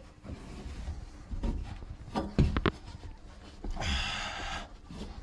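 Handling noises: a few sharp knocks about two seconds in, then a brief rubbing swish just before the end.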